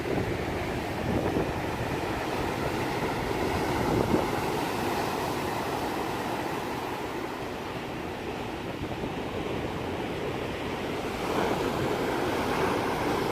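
Steady rush of ocean waves, with wind buffeting the microphone and a short knock about four seconds in.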